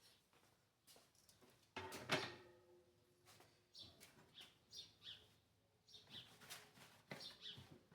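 Faint handling of a wall fan's parts: a knock about two seconds in with a brief metallic-sounding ring, then soft rustles. Short high chirps repeat throughout.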